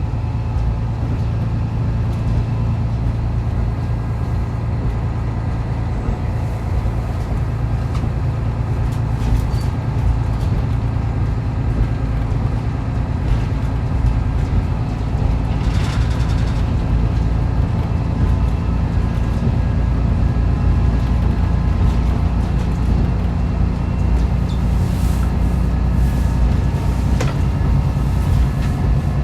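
Diesel railcar running on the Rumoi Main Line, heard from inside the passenger cabin: a steady low rumble of engine and wheels on the rails, with a few brief clicks and knocks.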